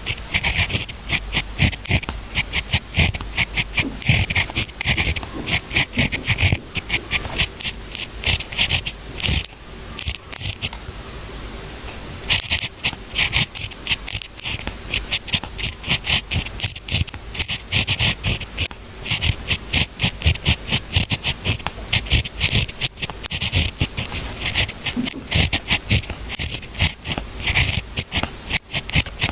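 Pen writing on paper: fast, irregular scratching strokes, with a pause of a second or so about ten seconds in before the writing resumes.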